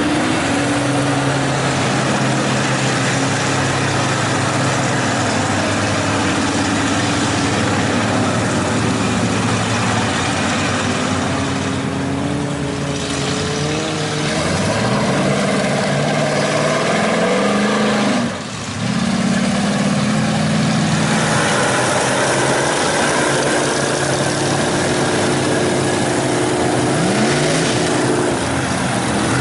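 Big mud-truck engines running loudly, their pitch climbing twice as the throttle is opened, about halfway through and again near the end, with a brief drop-out in between.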